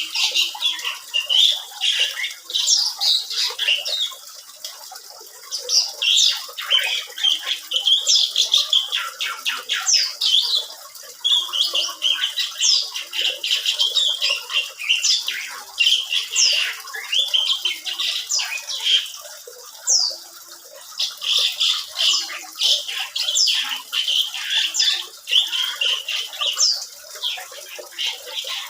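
Asian pied starling (jalak suren) singing a long, nearly unbroken song of quick, high whistled sweeps mixed with harsh chattering squawks, pausing only briefly a few times.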